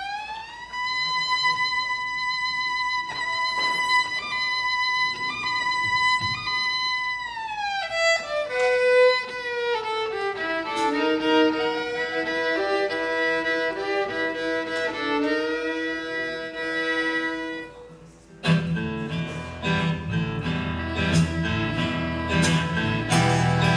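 Fiddle intro: the bow slides up into a long held high note, then glides down into a slower, lower melody. About 18 seconds in, strummed acoustic guitar and a bass line come in under it.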